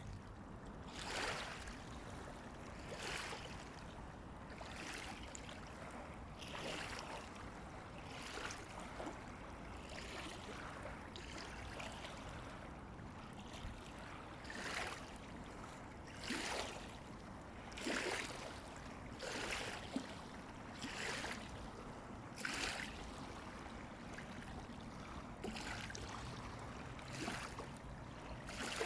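Small waves of the Daugava river lapping and splashing in a regular rhythm, a soft swish about every one and a half to two seconds over a low steady hiss.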